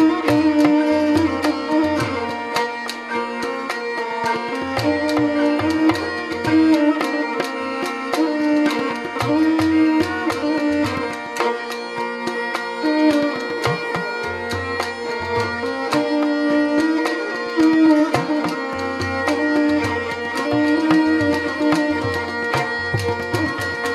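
Rajasthani folk instrumental music: a kamaicha's bowed melody over the rapid twang of a morchang jaw harp, with a hand-drum rhythm underneath.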